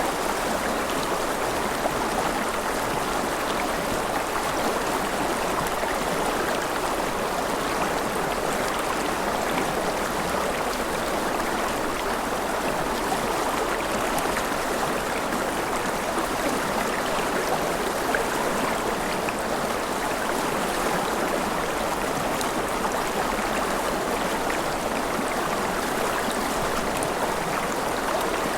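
River water flowing and splashing over stones, a steady even rush.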